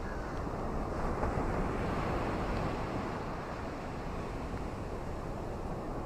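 Ocean waves washing onto a shore: a steady rush of surf that swells about a second in and then eases back.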